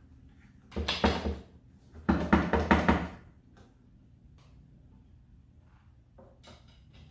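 Two bursts of rattling, knocking clatter, each about a second long, from loose metal engine parts being handled in a garage.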